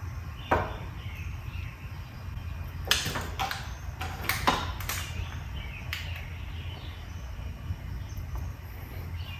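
A few sharp metallic clicks and knocks of hand tools being worked at a stripped carburetor float-bowl screw, over a steady low hum.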